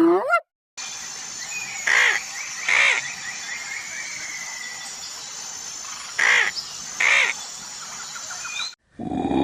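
Birds calling: two pairs of short, loud, harsh calls over steady high chirping birdsong. Another animal's call cuts off in the first half second.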